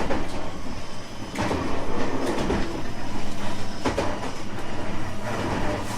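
JR West 225 series 5000 subseries electric train running at speed: a steady rumble of wheels on rail, with a sharp knock every couple of seconds as the wheels cross rail joints.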